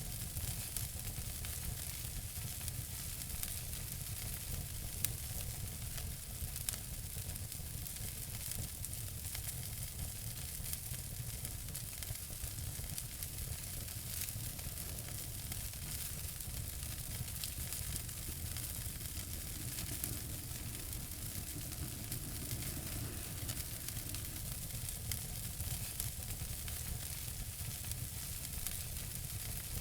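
Fire in a fireplace crackling: a steady hiss with many small crackles and two sharper pops about five and seven seconds in.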